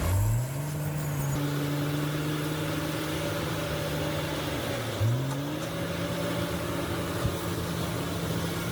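A bulldozer's diesel engine revving up under load, its pitch climbing quickly at the start and again about five seconds in, then holding steady.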